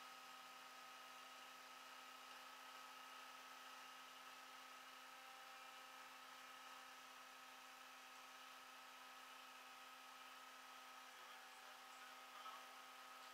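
Near silence: a faint, steady electrical hum with a few thin unchanging tones.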